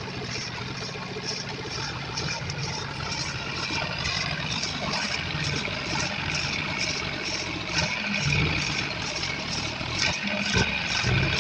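Farm tractor engine running steadily, with a regular high ticking at about two or three beats a second over it.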